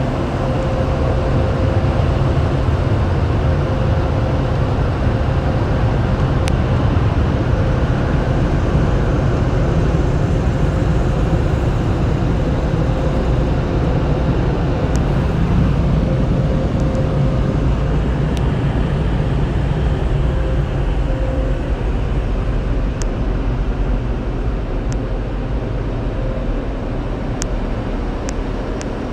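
Storm touch-free car wash equipment running steadily, a loud, even rush heaviest in the low end, with a faint steady hum and a few scattered ticks.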